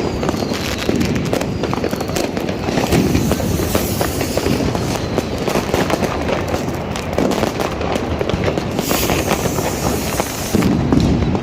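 Dense, continuous New Year's fireworks and firecrackers: many overlapping bangs and crackles, with a few faint whistling rockets.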